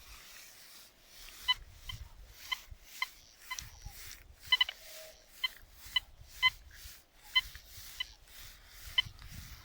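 Deteknix Quest Q40 metal detector giving short, identical beeps, about a dozen at irregular half-second intervals, as its coil is swept over the ground, with faint rustling between them.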